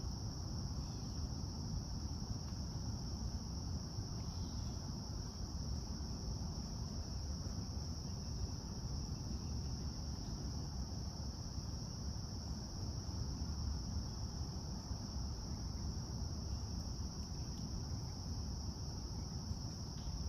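Steady, unbroken high-pitched insect chorus, like crickets, over a low rumble.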